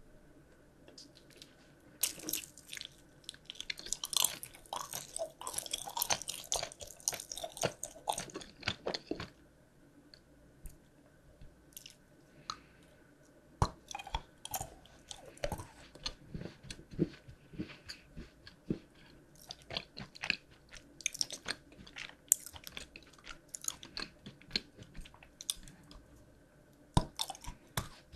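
Close-miked mouth sounds of biting and chewing candy, with dense crisp crunching for several seconds in the first third. After a short lull, more scattered bites and chewing follow.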